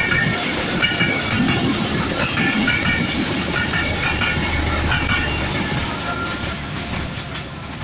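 Passenger coaches passing at speed, their wheels clattering over the rail joints, with high ringing tones above the rumble. The noise drops off about six seconds in as the last coach goes by.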